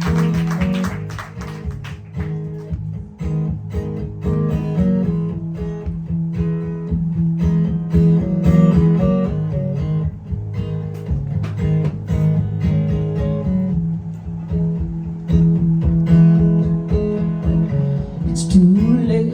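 Acoustic guitar playing the instrumental intro of a rock song live, strumming and picking chords in a steady rhythm.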